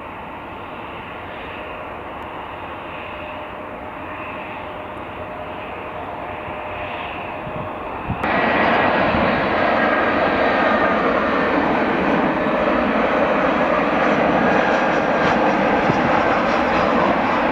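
Airliner engines running with a steady roar and a faint whine. About eight seconds in the sound cuts abruptly to a louder, brighter engine roar with a higher whine.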